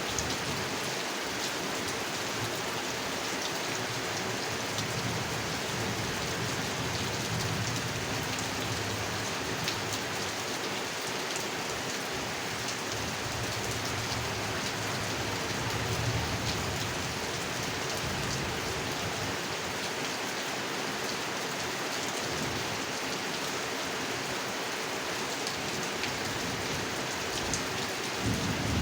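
Steady rain falling on a pond, with many individual drops ticking and splashing through the hiss, and a low rumble that swells and fades at times.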